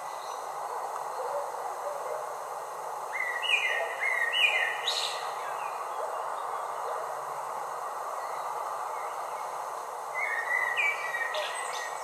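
Wild birds calling in short phrases of flat whistled notes stepping between two pitches, once about three seconds in and again near the end, over a steady, even hiss.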